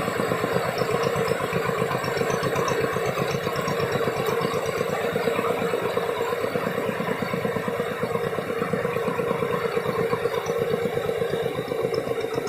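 Tractor engine running steadily with an even, fast pulsing beat.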